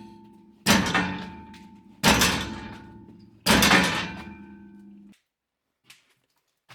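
A metal gate kicked hard three times, about a second and a half apart. Each kick clangs and leaves a ringing metallic resonance that dies away. The ringing cuts off suddenly about five seconds in.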